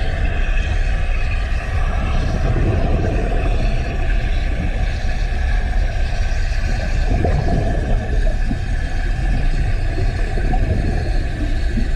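An engine running steadily: a continuous low rumble with a faint steady hum above it, and no change in pace.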